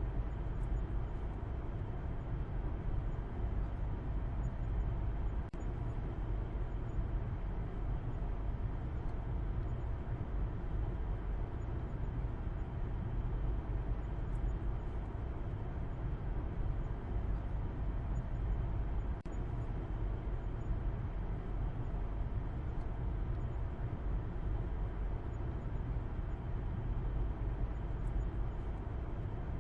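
A car driving, giving a steady low rumble of engine and road noise with little treble, broken only by two very brief dips in level.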